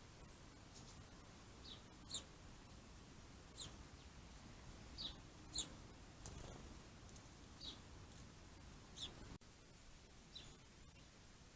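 A small bird calling with short, high chirps, each slightly falling in pitch, repeated every second or two over a faint steady hiss.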